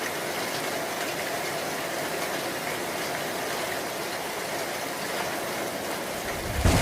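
Steady hiss of heavy rain falling. Near the end a low rumble of thunder begins and the sound gets louder.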